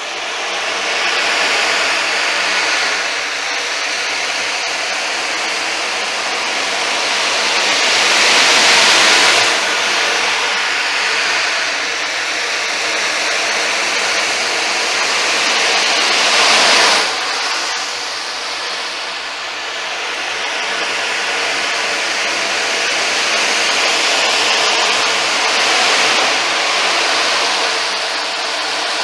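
Ocean drum played by tilting, the beads rolling across the drumhead in a steady rushing hiss like surf, swelling louder about eight and sixteen seconds in, the second swell breaking off sharply.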